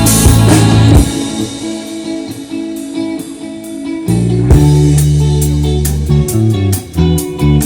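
A rock band playing live, an instrumental passage with guitar and drums. The full band sound drops back about a second in to lighter guitar and cymbal hits, and the heavy low end comes back in just after four seconds.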